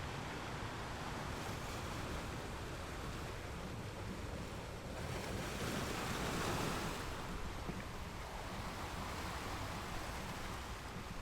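Ocean surf: a steady wash of waves, with one wave swelling louder and breaking a little past halfway through.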